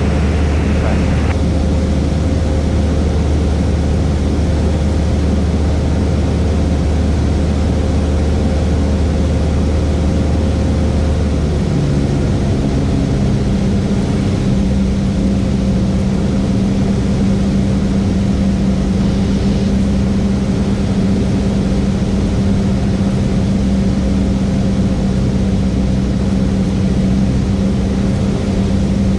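Cessna 172S's four-cylinder Lycoming engine and propeller droning steadily, heard from inside the cabin. About twelve seconds in, the steady hum shifts to a higher note and holds there.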